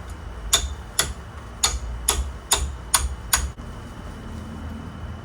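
Hammer blows on a manual impact driver, metal on metal with a short ring, to break loose a hub bolt. Seven strikes at about two a second, stopping about three and a half seconds in.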